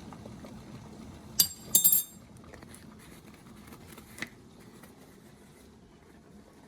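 Kitchenware clinking: one sharp ringing clink about a second and a half in, then a short cluster of ringing clinks just after, and a faint click about four seconds in.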